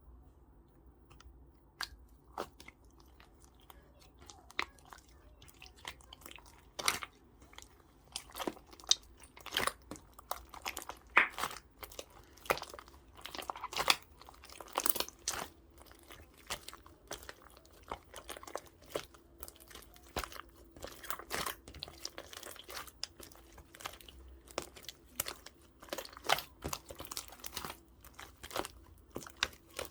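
Hands squishing and kneading a purple slime, making irregular sticky pops and crackles, some much louder than others.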